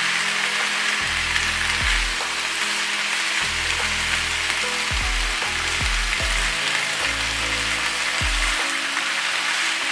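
Marinated chicken strips and vegetables sizzling steadily in oil in a frying pan as they are stir-fried.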